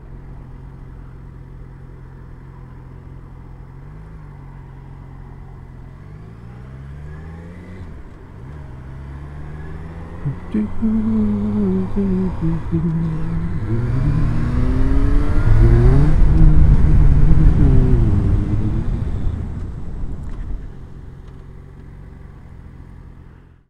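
Motorcycle engine idling steadily, then pulling away and accelerating with rising and falling revs through gear changes. It is loudest about two-thirds of the way in, then eases off.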